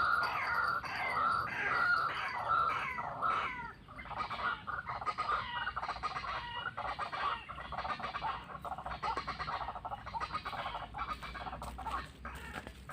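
White-breasted waterhen calling: a rapid run of harsh, downward-sliding calls, about two to three a second, that turn quicker and fainter after about four seconds.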